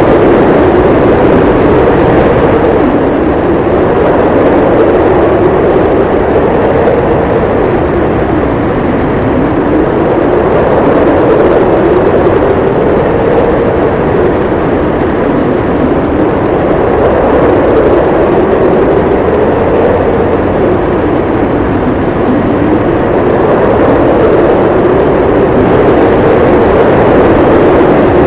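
Strong blizzard wind howling: a loud, steady rush with a howling tone that slowly rises and falls in pitch every few seconds.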